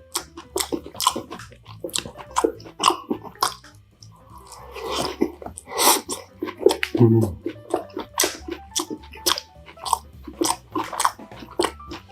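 Close-miked chewing and biting of food, dense with crunches and wet mouth clicks. A longer breathy stretch comes about four to six seconds in, and a short hummed 'mm' about seven seconds in.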